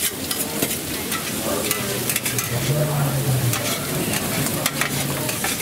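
Tartiflette of potatoes, onions and lardons frying in a pan, with steady sizzling and crackling while a utensil stirs and scrapes through it.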